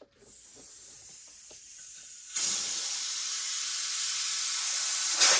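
Compressed air hissing into a motorcycle inner tube as it is inflated inside the tire: a faint hiss at first, then a louder steady hiss from about two seconds in.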